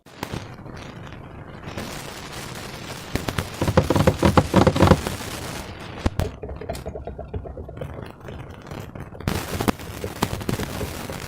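Slime being squeezed and pulled by hand, giving a rapid crackle of small pops. The crackle is thickest and loudest about four to five seconds in, with a few sharper single clicks later.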